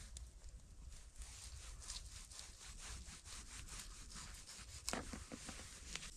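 A quick run of short scraping or crunching strokes, with two sharper, louder ones near the end.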